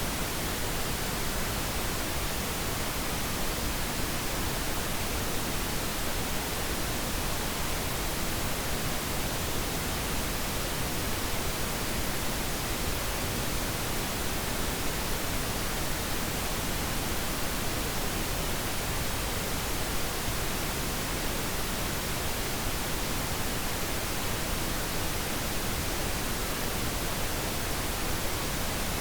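Steady pink noise: an even, unchanging hiss across the whole range, with no events or changes, played as a sleep aid.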